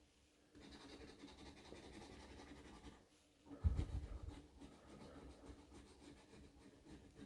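Scratch-off lottery ticket being scratched: faint, rapid scraping strokes over the card's coating. About halfway through the scraping pauses briefly and there is a low thump before it resumes.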